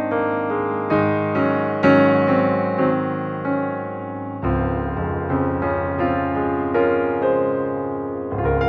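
Background piano music: a gentle melody of struck notes over chords, the bass line shifting about halfway through.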